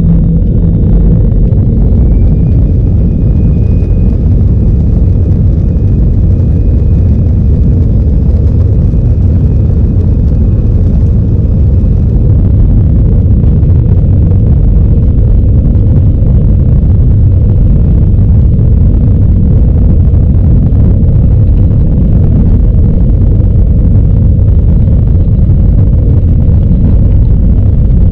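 Airbus A320-216's CFM56 jet engines at takeoff power, heard from inside the cabin as a loud, steady, deep rumble through the takeoff roll and climb. A high engine whine rises about two seconds in, holds, and fades out near the middle.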